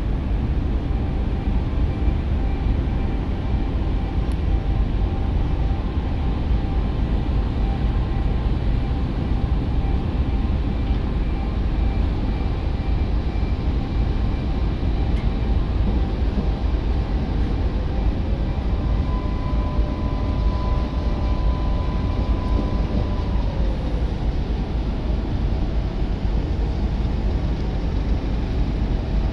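Strong wind buffeting the microphone: a loud, steady, deep rumbling rush with no letup.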